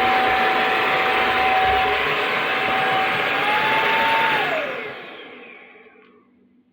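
Bissell CrossWave OmniForce wet-dry vacuum running with a steady whine. About three seconds in the whine rises a little; a second later the motor is switched off and winds down, the pitch dropping and the sound dying away over about a second and a half.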